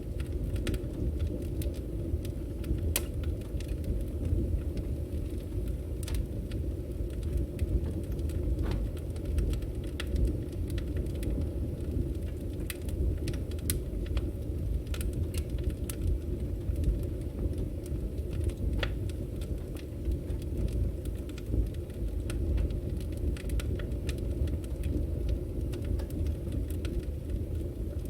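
Wood fire burning: a steady low rumble of the flames with frequent sharp crackles and pops from the burning logs scattered throughout.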